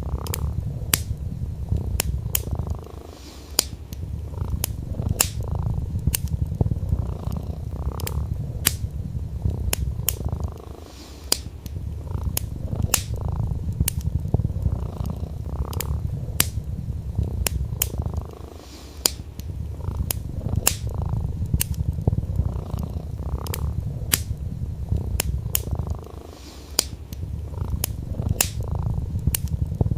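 Domestic cat purring steadily in a low rumble that briefly weakens every seven or eight seconds, mixed with a wood fire crackling in frequent sharp pops.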